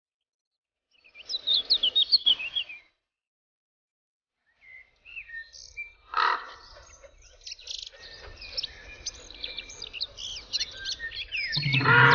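Small birds chirping in quick, high bursts, with short silent gaps between; the chirping grows busier toward the end. Music starts just before the end.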